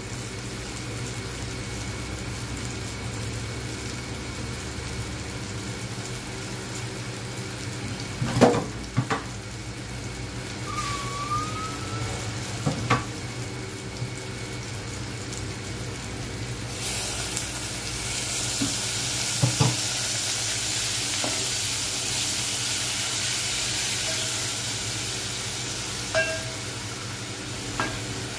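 Spinach, tomato and garlic sizzling in oil in an aluminium pot and being stirred, with a few sharp knocks against the pot. The sizzle turns louder and hissier a little past halfway.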